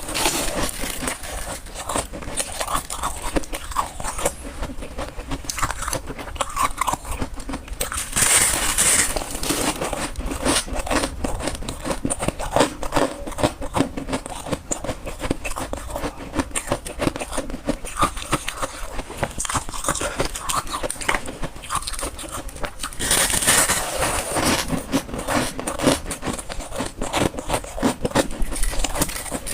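Close-up crunching of freezer frost ice being bitten and chewed: dense crackling crunches throughout, with louder bites about eight seconds in and again near twenty-three seconds.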